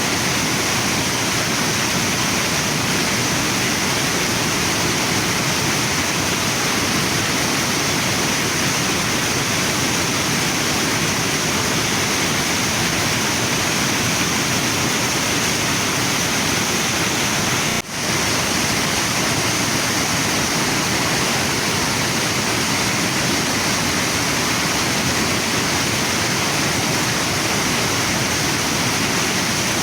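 Waterfall and river water rushing in a steady, dense roar, with one momentary drop in level about two-thirds of the way through.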